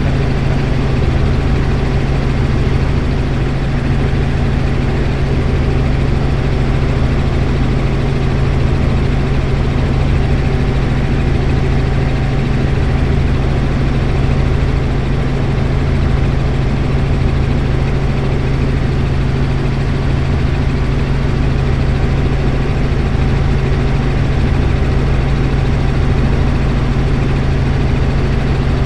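Helicopter in flight: a steady, unchanging drone of engine and rotor with a strong low hum.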